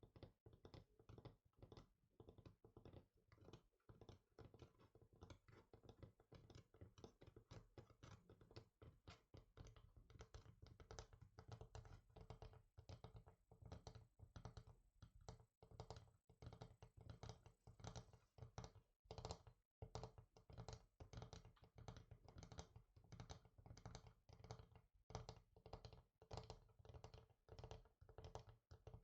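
Quiet, rapid fingertip tapping on a hard surface, several light taps a second in a continuous flurry, with a brief break about two-thirds of the way through.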